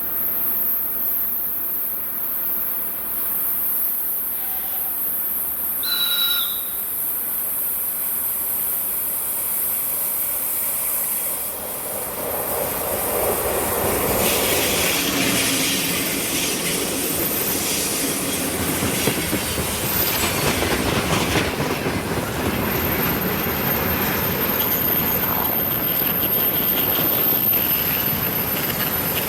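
Freight train passing: the sound builds about twelve seconds in, and the wagons' wheels clatter and rumble steadily over the rails from there on.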